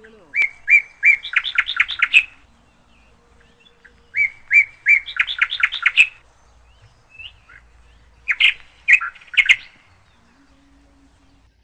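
A songbird singing loudly in three phrases. The first two each open with three separate clear notes and run into a quicker series of notes; a shorter, choppier phrase follows near the end.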